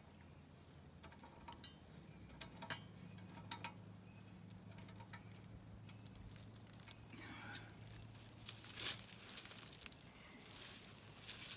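Scattered faint clicks, taps and a couple of brief scraping rustles from hand work on irrigation pump fittings, over the low steady hum of a running electric pump.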